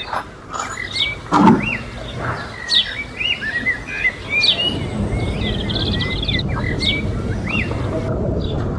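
Small birds chirping repeatedly in short, high phrases, with a few sharp knocks in between and a steady low rumble starting about halfway through.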